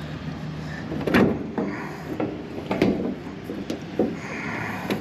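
Sheet-metal access panel of a rooftop air-conditioning unit being worked loose and pulled off: several sharp metal clunks and scrapes over a steady low hum.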